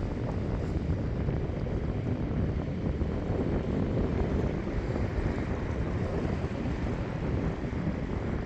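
North Sea surf washing steadily onto a flat sandy beach, mixed with wind buffeting the microphone as a fluctuating low rumble.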